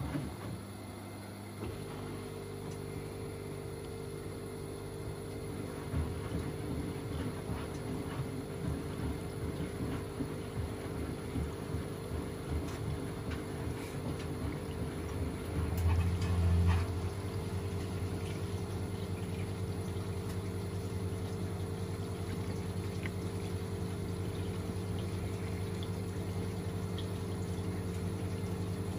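Washing machine running through a wash cycle: a steady motor or pump hum sets in about two seconds in, with water moving, and swells briefly into a louder low rumble about halfway through.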